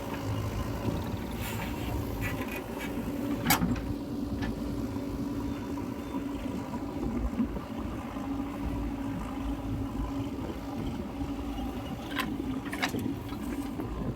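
Heavy diesel engine running steadily, with a sharp knock about three and a half seconds in and two more near the end.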